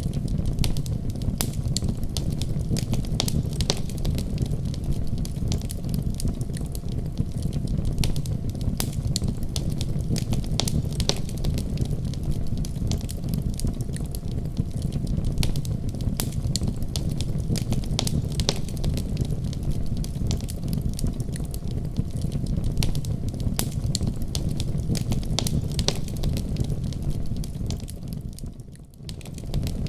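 Wood fire burning in a fireplace: many sharp crackles and pops over a steady low rumble of flames. It dips briefly about a second before the end, then comes back.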